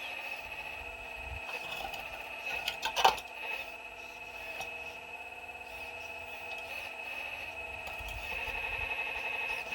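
Excavator machinery running with a steady high-pitched whine, and a sharp knock about three seconds in, as of bucket on rock.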